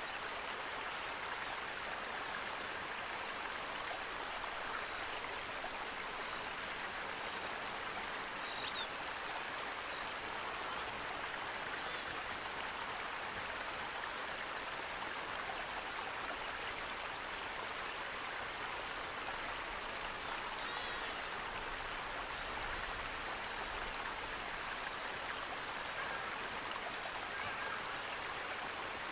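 Running water rushing steadily, like a stream or small waterfall, with a couple of faint high chirps about a third and two thirds of the way through.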